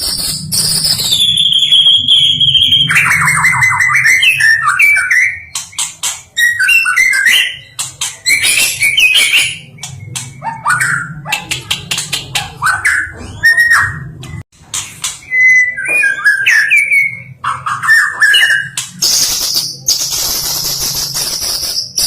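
White-rumped shama (murai batu) singing a varied song full of mimicked 'isian' phrases. It opens with a long high buzzing note that slides down in pitch, then runs through quick whistled phrases and fast ticking runs. The high buzz returns near the end.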